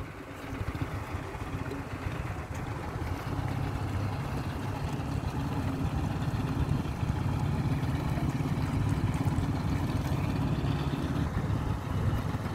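A boat engine running steadily, a low hum that grows louder over the first few seconds and then holds.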